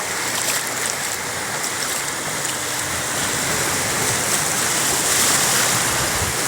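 Sea waves breaking and washing up the beach: a steady rush of surf that swells slightly about five seconds in.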